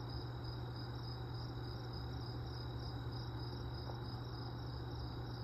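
Crickets chirping in a steady, evenly pulsing high trill over a low, even hum.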